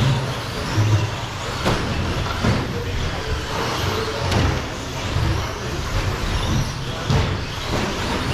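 Radio-controlled short course trucks racing on a track, several at once, with a few sharp knocks along the way.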